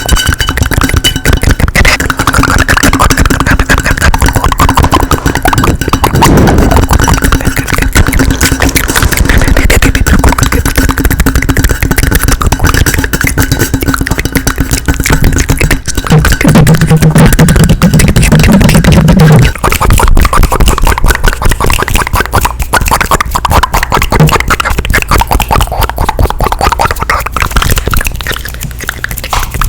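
Close-miked ASMR mouth sounds: rapid, dense wet clicks and pops from the lips and tongue. A low steady tone joins them for a few seconds past the middle.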